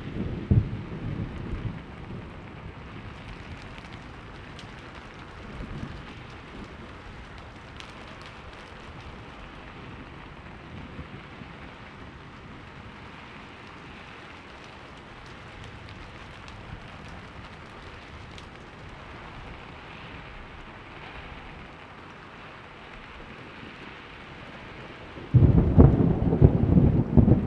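Thunderstorm: steady rain with a fading rumble of thunder at the start, then a sudden loud clap of thunder near the end that rumbles on.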